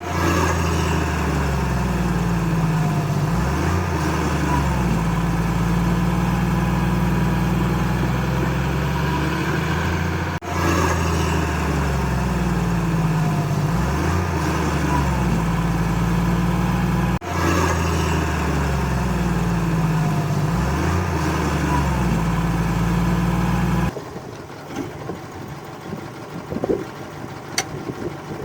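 Heavy construction machine's diesel engine running steadily with small dips and rises in pitch. It breaks off abruptly twice, about ten and seventeen seconds in, and picks straight up again; about four seconds before the end it gives way to quieter scattered knocks.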